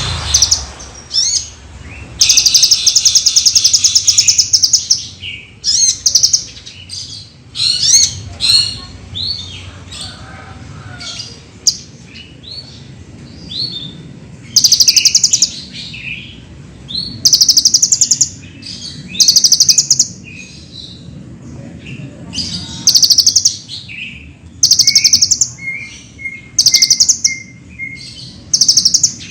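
Kolibri ninja sunbird singing: repeated fast, high trills of one to two seconds each, with shorter high chirps and notes in between.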